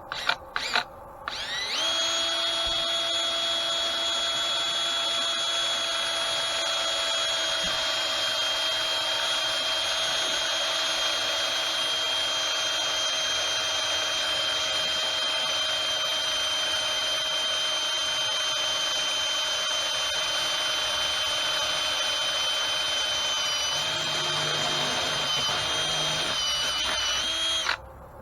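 Electric drill drilling out a hole in a mill part. A few short trigger blips lead into a steady high whine that runs for about 25 seconds, wavers and dips slightly in pitch near the end, then stops abruptly.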